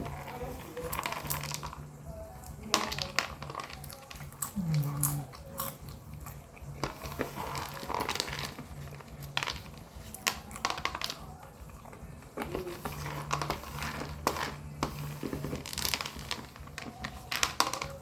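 Popcorn being bitten and chewed close to the microphone: crisp crunches come in irregular clusters, over a faint steady low hum.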